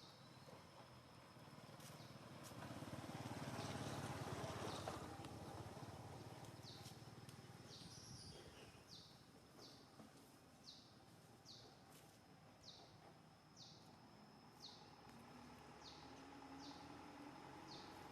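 Faint outdoor ambience: a bird repeating short, high, falling chirps about once a second, over a faint steady high whine like insects. A low rumble swells and fades in the first few seconds.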